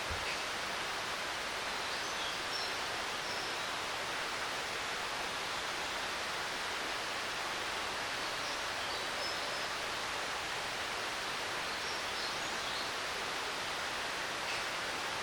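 Steady rush of a mountain stream's running water, with small birds chirping faintly a few times over it.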